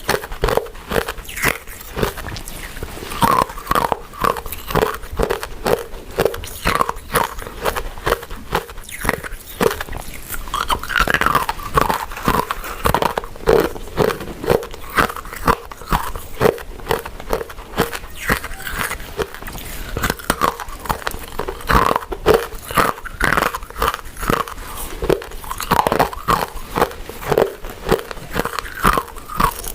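Close-miked chewing and biting of soft, chewy glutinous rice desserts: a steady rhythm of wet, sticky mouth clicks, several chews a second.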